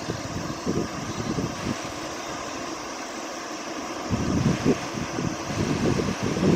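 Wind buffeting the microphone in irregular gusts, stronger from about four seconds in, over a steady rushing noise.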